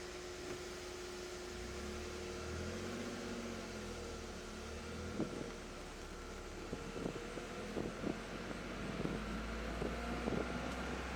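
2024 Toyota GR Corolla's turbocharged three-cylinder engine idling, heard from inside the cabin as a steady low hum, with a few light clicks and knocks from about halfway through.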